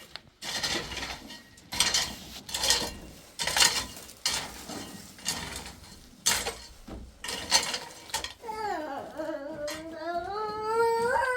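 Rhythmic scraping strokes, about one a second, then near the end a long wavering cat meow that dips and rises in pitch.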